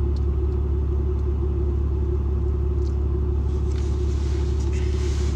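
Truck's engine running, a steady low rumble heard inside the cab with a constant hum over it.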